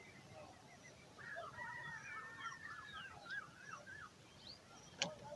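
Birds calling in short high chirps and gliding whistles, with a busy warbling run of calls in the middle. A sharp click sounds about five seconds in.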